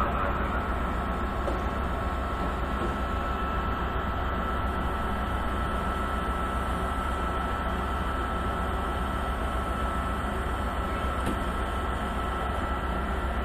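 Railway station ambience: a steady hum of electric trains with a thin, steady whine on top.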